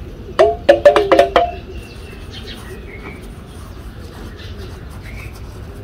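Birds calling: a loud quick run of about six short, low-pitched calls in the first second and a half, then a thin, high chirp and a few fainter chirps.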